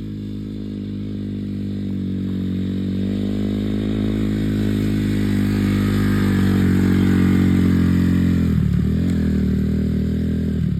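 Dirt bike engine running at steady revs, growing louder as it comes closer. About eight and a half seconds in, its pitch briefly dips and wavers.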